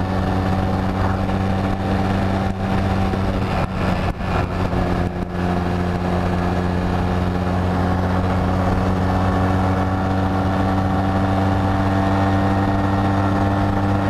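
2005 Honda Rebel 250's air-cooled parallel-twin engine running at a steady cruising speed, heard from the rider's seat along with wind and road noise. A few brief crackles come about four to five seconds in.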